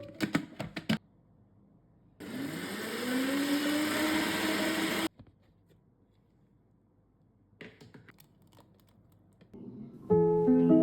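Electric blender motor spins up with a rising whine and runs for about three seconds, then cuts off suddenly. Clicks and knocks before it and a few faint clicks after.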